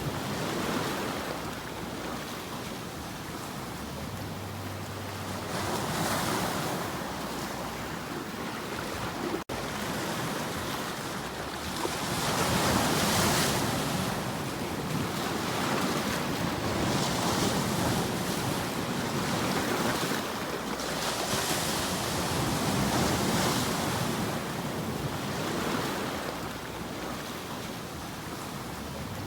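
Ocean waves washing in, the surf swelling and falling back every few seconds, with wind. The sound drops out for an instant about a third of the way through.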